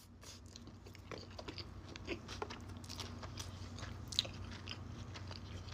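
Close-up sounds of a person chewing sushi: a string of small, irregular wet mouth clicks and soft crunches.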